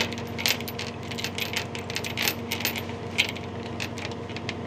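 Light, irregular metallic clicks and clinks of a tie-down strap's hook and ratchet hardware being handled and hooked in while a motorcycle is strapped down, over a steady low hum.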